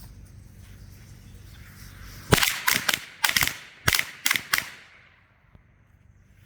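A short string of Alien Star Bomb firecrackers going off: about nine sharp bangs in quick, uneven succession over roughly two seconds, then stopping.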